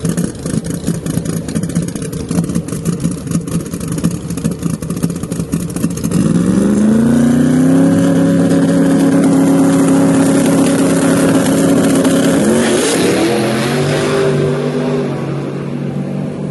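Drag car engine running with a choppy, uneven idle, then launching at full throttle about six seconds in, its pitch rising and holding. It shifts gear near the end and fades away.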